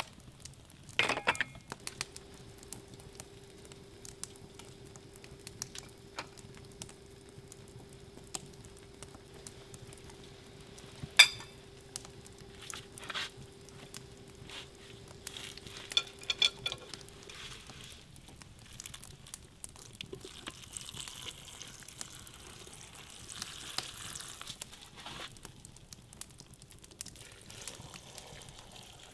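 Quiet sizzling and crackling with scattered clicks and knocks; the loudest is a single sharp knock about eleven seconds in. A faint steady hum runs through the first half.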